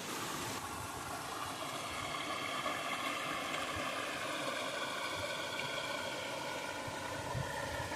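Rushing-water noise that cuts off about half a second in, giving way to a steady engine-like hum with several even tones.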